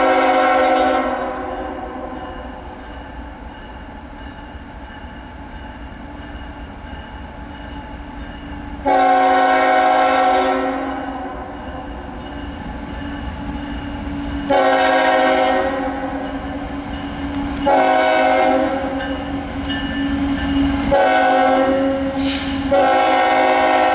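Multi-chime air horn of CN 3840, the lead diesel locomotive of a freight train, sounding a crossing signal: a blast fading out at the start, then two long blasts, a short one, and a long one held near the end. A steady low rumble of the approaching train runs underneath.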